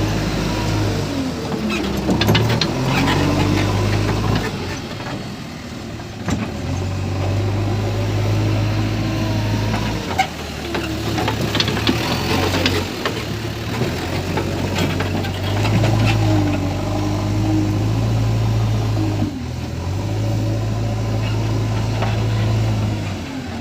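Diesel engine of a JCB 3DX backhoe loader working, its speed rising and falling again and again, with scattered clanks and rattles.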